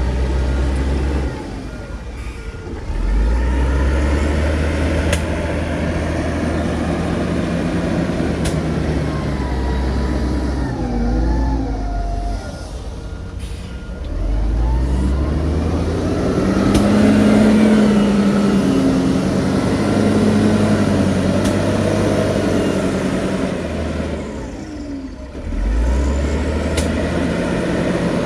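Heavy diesel engines of earthmoving machines working under load, the engine note rising and falling as they rev and ease off. The engines drop back briefly about two seconds in, around twelve seconds in and near the end, then rev up again.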